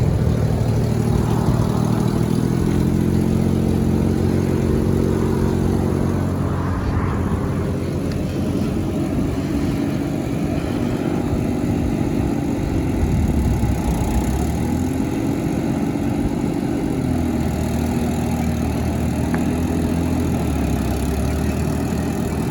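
Suzuki Trac Truck engine running, steady at first, then its speed rising and falling a few times in the second half.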